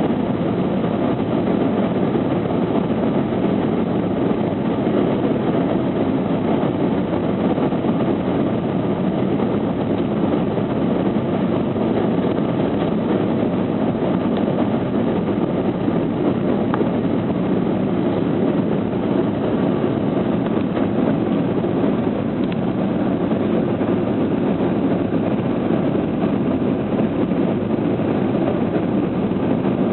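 Steady cabin noise inside an Airbus A320 airliner in flight: an even rush of engine and airflow noise that holds at one level throughout, with no thumps or changes.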